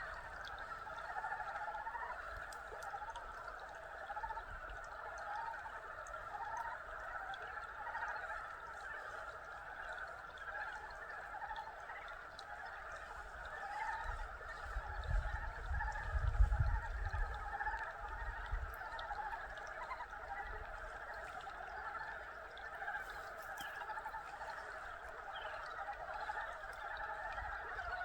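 A chorus of many frogs calling at once, steady and overlapping throughout. A low rumble rises and falls in the middle.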